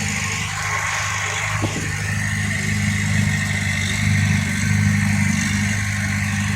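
Diesel engine of heavy earthmoving equipment running steadily, with a low, even hum and mechanical hiss above it.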